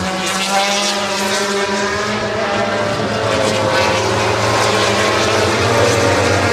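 MotoGP racing motorcycles' four-cylinder engines running loud and steady through the pit lane. More than one engine's note can be heard, shifting a little in pitch, over a steady low hum.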